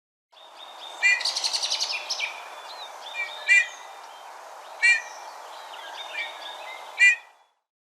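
Bullfinch calling: four short whistled notes spaced a second or two apart, with a fast rattling trill about a second in, over a steady background hiss.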